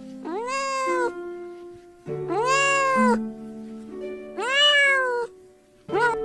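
An animal calling three times, each call a drawn-out cry that rises and then slides down in pitch, lasting just under a second, with background music of held and plucked notes underneath.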